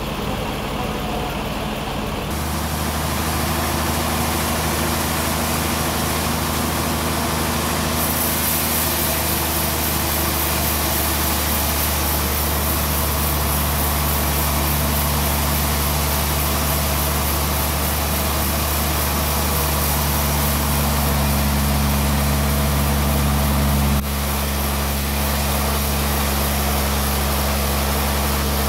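Band sawmill running while sawing a log: a steady machine drone with low hum tones, stepping up about two seconds in, joined by a hissing cutting noise about eight seconds in, and shifting abruptly near the end.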